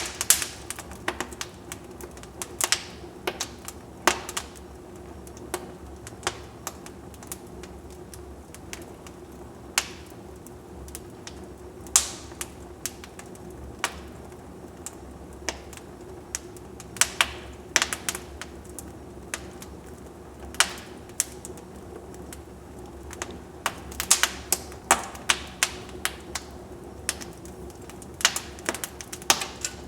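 Wood fire in a fireplace crackling: irregular sharp pops and snaps, bunching into quick flurries around 17 to 18 seconds in and again from about 24 seconds in, over a steady low background of the burning fire.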